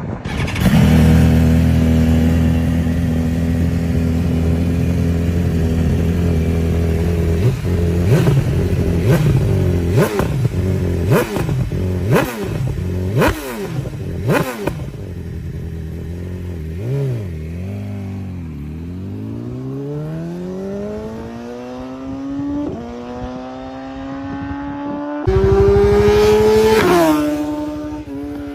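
BMW S1000RR superbike's inline-four engine running at a steady fast idle, then revved in about seven sharp throttle blips roughly a second apart. Its note then slides slowly upward, and near the end it is held at higher revs for a couple of seconds before dropping back.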